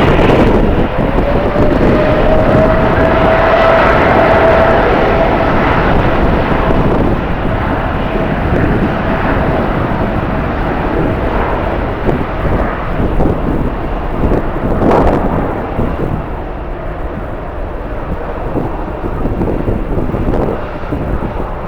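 Jet airliner's engines running past with a steady whine that rises slightly in pitch over the first few seconds, then fades as the sound eases off in the second half.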